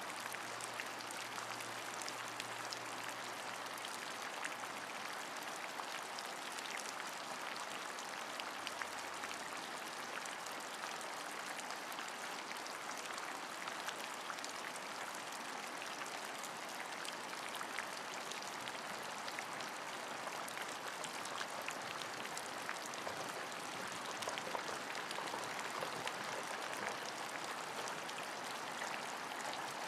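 Steady rain: an even hiss with many small drop ticks, holding level throughout.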